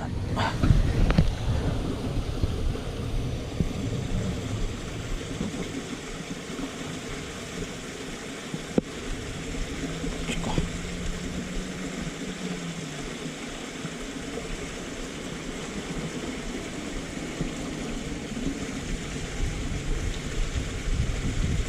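Steady rushing of running water in a swollen canal, with wind on the microphone and one sharp click about nine seconds in.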